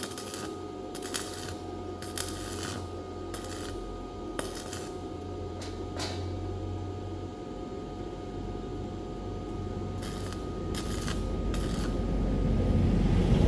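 Light metallic clinks and taps, as of hand tools and small metal parts being handled, coming irregularly every half second to a second over a low steady rumble. The rumble grows louder near the end.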